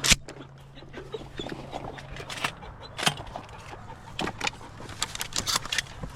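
A shotgun blast right at the start and a second, quieter sharp bang about three seconds in, with scattered small clicks and knocks between them over a low steady hum.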